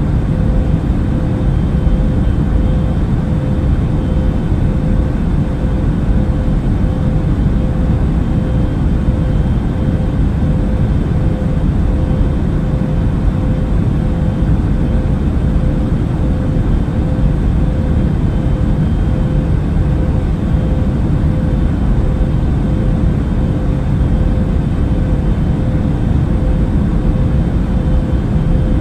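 Steady airliner cabin noise in flight: a constant low rumble of engines and airflow with a steady hum on top, unchanging throughout.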